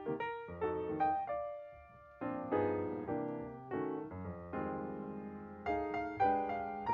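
Background music: slow piano chords, each struck and left to fade, with a short pause about two seconds in.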